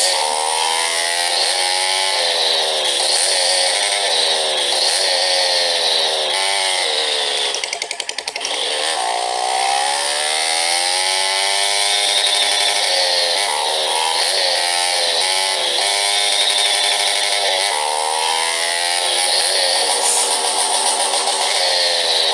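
Motorcycle engine running under way, its pitch repeatedly rising and dropping as it revs and shifts gears, with a brief drop in level about eight seconds in. The bike is very noisy.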